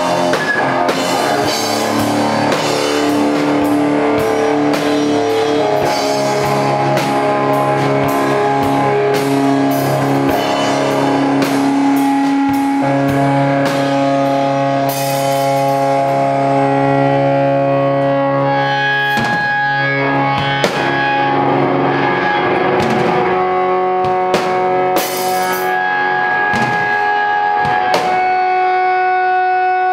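Live rock band playing: guitar holding long sustained notes that change every few seconds over a drum kit, with cymbal crashes about halfway through and again near the end.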